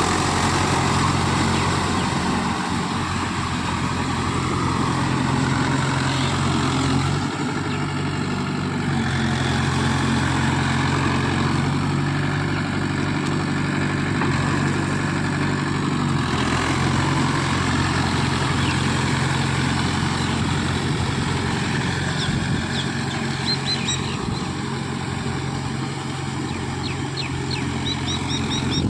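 Mahindra Yuvo Tech+ 575 DI tractor's diesel engine running steadily while pulling a rotavator, its note shifting slightly about seven and sixteen seconds in. A few short high chirps come near the end.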